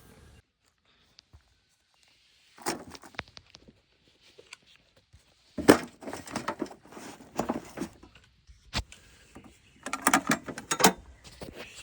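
Objects being handled: irregular bursts of clattering and knocking after a nearly silent first two seconds, loudest about six seconds in and again near the end.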